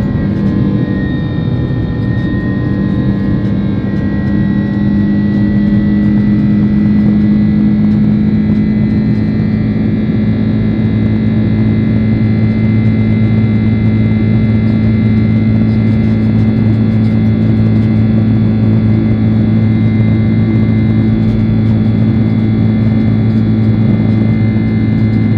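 Boeing 767-300 jet engines running steadily, heard from inside the cabin as a loud, even hum with a fainter high whine. The whine wavers slightly in pitch in the first few seconds, and a deeper hum grows stronger about halfway through.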